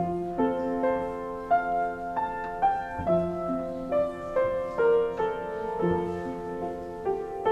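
Solo piano playing a slow, gentle melody with chords, a new note struck about every half second and each fading as it rings.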